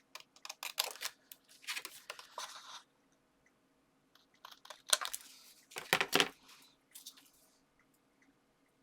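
Paper and card being handled and shifted on a craft desk: irregular rustling with small clicks and taps, loudest about five and six seconds in.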